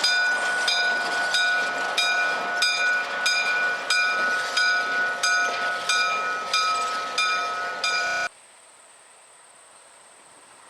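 Railroad grade-crossing bell clanging steadily, about two strikes a second, over the noise of a passing train. It cuts off suddenly about eight seconds in, leaving only faint hiss.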